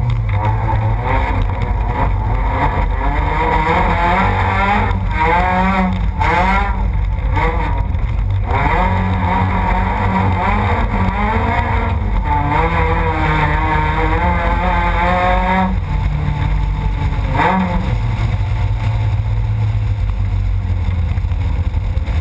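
Rallycross car's engine heard from inside the car at race pace, revving up through the gears with repeated climbs in pitch cut short by upshifts. About sixteen seconds in it lifts off, gives a short blip, then runs steady again over a constant low drone.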